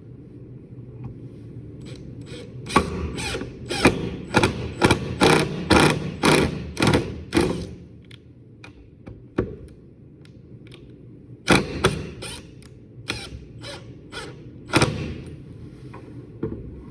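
Sharp mechanical clicks, about two a second, in a run of a dozen or so, then a few scattered clicks later, over a low steady background rumble.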